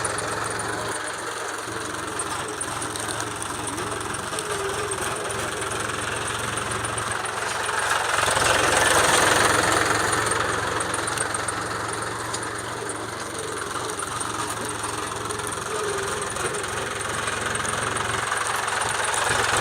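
Mahindra tractor's diesel engine running steadily, getting somewhat louder for a couple of seconds around the middle.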